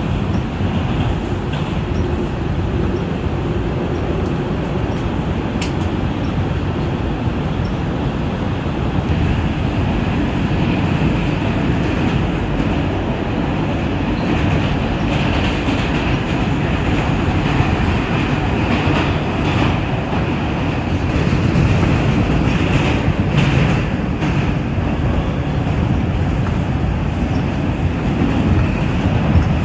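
Inside an NYC Subway R142 car running between stations: a steady, loud rumble of the train's wheels on the rails and its motors.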